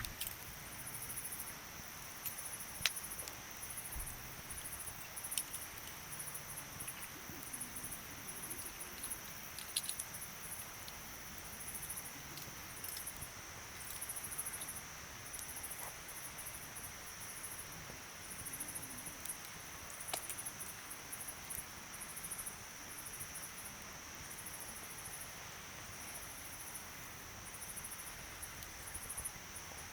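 Night insects chirping: high pulsed trills about once a second over a steady high-pitched drone, with a few faint sharp pops from the campfire.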